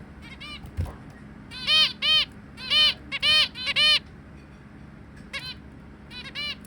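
Zebra finches calling: a quick run of about six short, loud calls between roughly two and four seconds in, with fainter single calls before and after.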